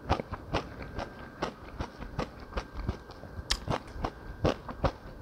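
Close-miked chewing and wet mouth smacks of a man eating mouthfuls of jjamppong noodles, an irregular run of sharp clicky sounds a few times a second.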